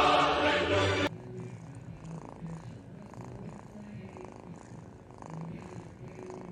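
Chanted singing that cuts off abruptly about a second in, followed by a cat purring quietly in a soft, even pulse.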